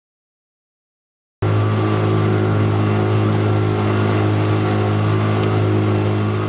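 About a second and a half of silence, then an engine starts to be heard abruptly, running steadily at idle with a strong low hum.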